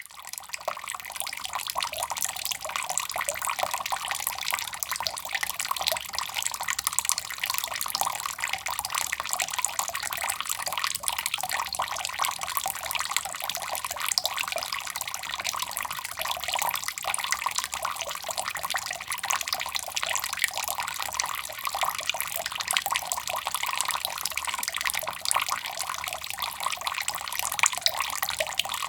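Water falling into a cup: a steady, dense splashing of falling water and drops.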